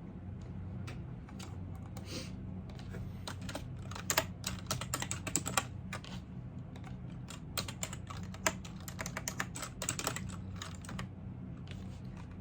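Typing on a computer keyboard: a few scattered keystrokes, then fast runs of key clicks in the middle and again through the second half, stopping a little before the end. A steady low hum runs underneath.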